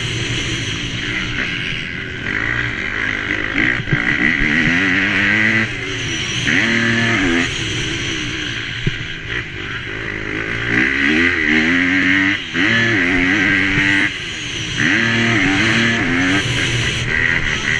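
MX2 motocross bike's engine revving hard and dropping back over and over as it races round the track, its pitch rising and falling every second or two with brief drops where the throttle is shut.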